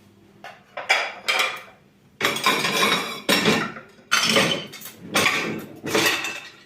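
Dishes and cutlery clattering as they are handled: a run of clinks and knocks, a few at first, then a busy series from about two seconds in.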